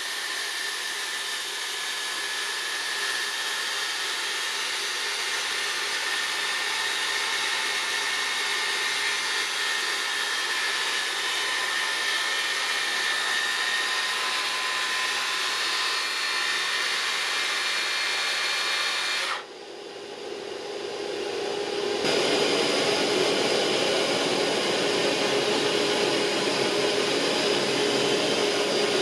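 Electric power tool motor running with a steady whine. About 19 seconds in the sound drops out suddenly, then it comes back louder with a lower steady tone from about 22 seconds.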